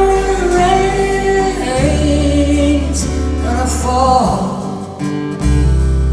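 A woman singing long held notes of a folk song over acoustic guitar, live. The voice stops about four seconds in, leaving the guitar playing on alone.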